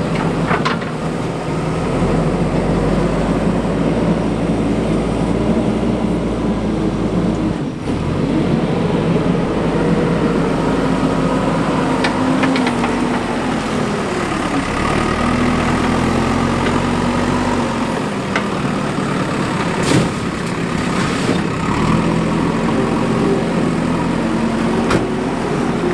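Diesel engine of a JCB 3DX backhoe loader running under load, its pitch rising and falling as it works, with a few sharp knocks.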